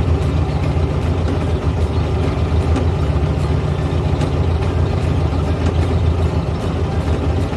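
A 1970s Volkswagen's engine running steadily at low revs, a continuous low rumble with faint light ticks over it.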